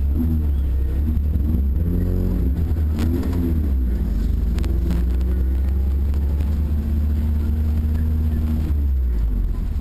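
Harper Type 5 sports car's engine pulling away, its note rising and falling over the first few seconds, then holding steady before easing off near the end.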